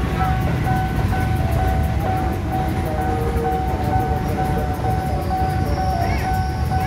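JR 205 series electric commuter trains running past over a level crossing, a steady low rumble of wheels on rail. Over it the crossing's warning alarm sounds a steady ringing tone, with a few short rising-and-falling chirps near the end.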